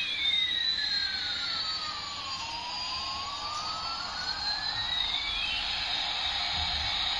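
Electronic jet-engine sound effect from a toy airplane: a steady hissing rush with two whistling tones that glide apart, one falling and one rising, then come back together about five seconds in.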